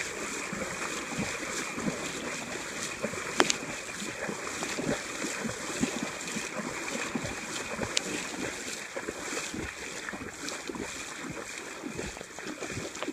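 Fast-flowing river water rushing and sloshing around waders crossing it waist-deep, with irregular splashes throughout. Two sharp clicks or knocks, the first about three seconds in and the louder of the two, the second about eight seconds in.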